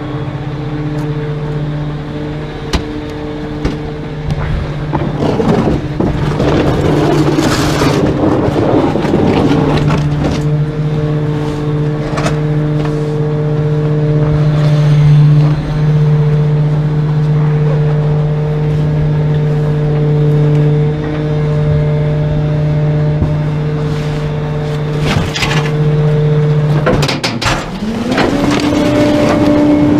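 Trash truck engine running with a steady drone, with scattered rattles and knocks. Near the end the drone drops away and then climbs in pitch as the truck accelerates.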